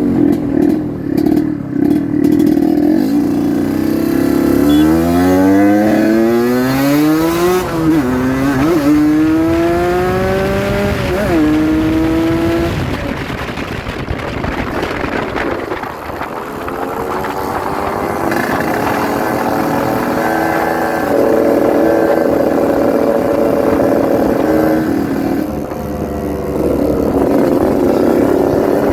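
Yamaha RX-King 135cc two-stroke motorcycle engine being ridden. It runs steadily, then revs up through the gears with the pitch rising and dropping at each shift, and settles into a steady cruise.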